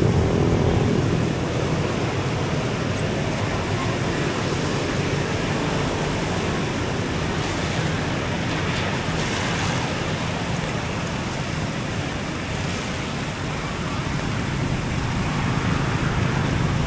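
Steady outdoor noise of beach surf mixed with road traffic, with a vehicle's low engine sound at the start that fades after about a second.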